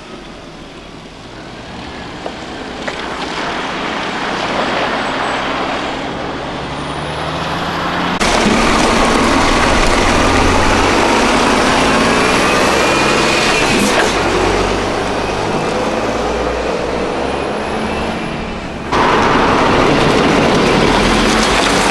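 Heavy military truck engines running as the trucks drive, growing louder over the first several seconds. The sound changes abruptly about eight seconds in and again near the end, where one truck recording cuts to another.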